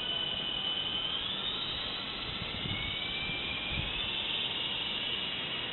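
Double Horse 9053 RC helicopter in flight: a steady electric motor and rotor whine. Its pitch rises about a second in and again a little later as the motors spool up.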